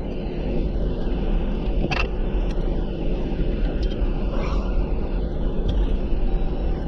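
Off-road vehicle driving: a steady engine and road rumble, with a few sharp knocks and rattles, the clearest about two seconds in.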